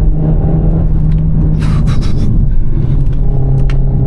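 Renault Mégane RS Trophy's 1.8-litre turbocharged four-cylinder engine pulling hard under acceleration. Its note holds steady, drops slightly about two-thirds through, and rises again near the end, with a brief hiss about halfway.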